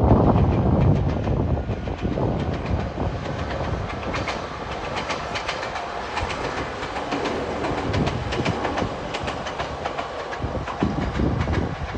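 Two-car Ohmi Railway electric train running past, its wheels clicking over the rail joints in a steady clickety-clack, with a heavier low rumble in the first second.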